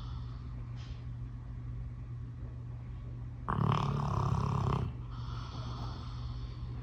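A dog snoring, with one loud snore about halfway through lasting over a second and softer breathing around it, over a steady low hum.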